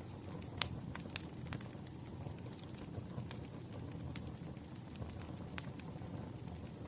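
Wood fire burning with a steady low rush and irregular sharp crackles and pops, the loudest about half a second in.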